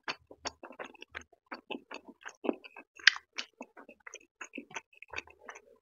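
Close-miked wet chewing of a soft, syrup-soaked rasgulla: an irregular run of small smacking mouth clicks, several a second.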